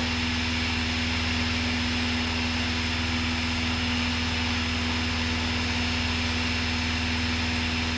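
Cessna 172's piston engine and propeller running at steady climb power, heard inside the cockpit as an even drone with a constant hum and hiss.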